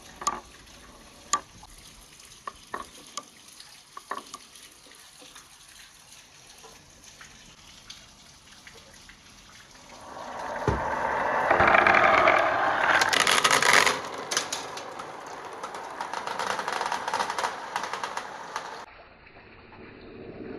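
Marbles and water in a water marble run of PVC pipe and rain gutters: scattered clicks of marbles, then about ten seconds in a loud rush of water and rolling marbles. The rush lasts several seconds, eases off and stops abruptly near the end.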